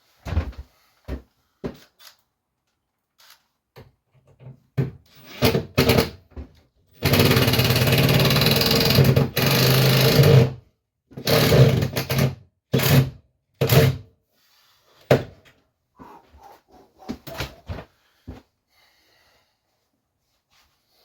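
A power tool running in short bursts, with one longer run of about three and a half seconds about seven seconds in, among knocks from handling boiler fittings.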